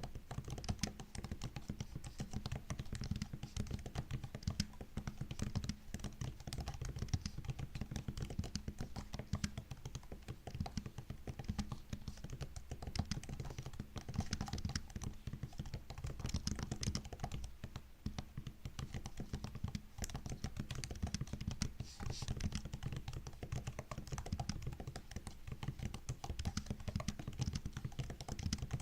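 Continuous fast typing on a MacBook's built-in keyboard: a dense stream of soft key clicks and taps, broken by a couple of short pauses.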